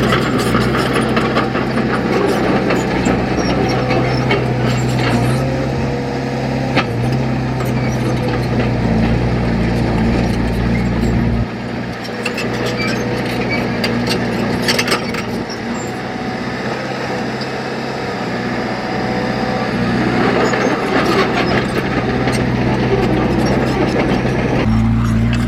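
Heavy diesel earthmoving machinery running under load, with metallic clanks and scraping over a steady engine note; the engine's deep drone drops away about halfway through and comes back near the end.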